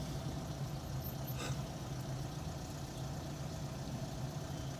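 Car engine idling, heard from inside the cabin as a steady low hum while the car sits in a traffic jam, with one faint tick about one and a half seconds in.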